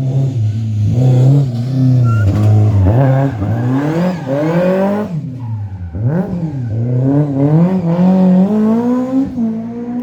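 Rally car engine revving hard, its pitch climbing and falling as it is driven through the gears. The revs drop sharply about five seconds in, then climb again.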